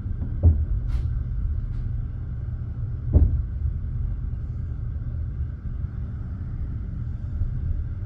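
Passenger train carriage rolling along the track with a steady low rumble. The wheels strike a rail joint with a loud clack about half a second in, and again about three seconds in.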